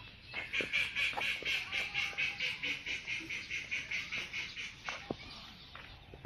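An animal calling in a rapid, even series of about five calls a second, starting about half a second in and stopping about five seconds in.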